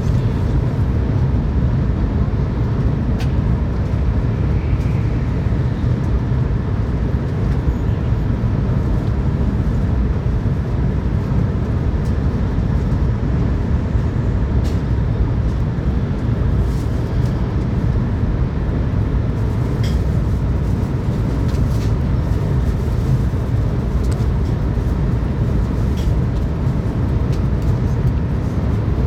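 Tokaido Shinkansen running at speed, heard inside the passenger car: a steady low rumble and rush of wheels on rail and air, with a few faint ticks.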